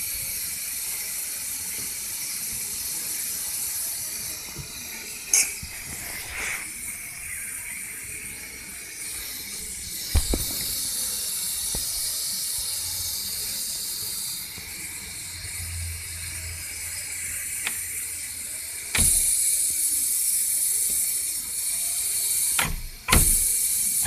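Ford Figo 1.4 TDCi's air-conditioning compressor giving a steady high hiss, with a few sharp clicks, growing louder and rougher near the end.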